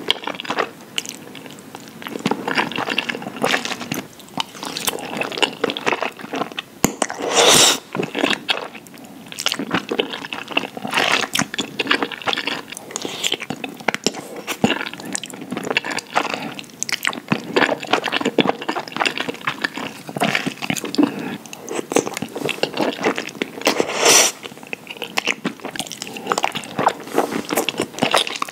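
Close-miked wet chewing and mouth sounds of someone eating creamy shrimp fettuccine alfredo: soft irregular smacks and squishes, with two louder moments about 7 seconds in and again about 24 seconds in.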